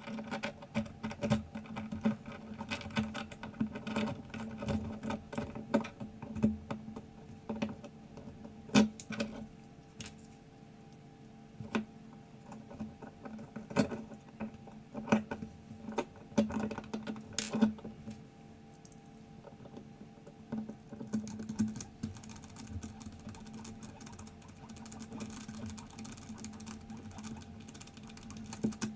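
Irregular light clicks and small metallic taps from the parts of a 1920s Odhner pinwheel calculator being worked by hand: its cleaned gears and freshly greased axle.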